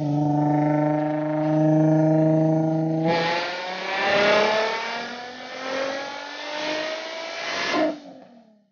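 Supercharged Nissan 350Z V6, breathing through a Tomei Expreme Ti titanium exhaust, on a dyno pull: it holds a steady pitch for about three seconds, then the pitch climbs steadily through the rev range for about five seconds before it cuts off suddenly as the throttle closes.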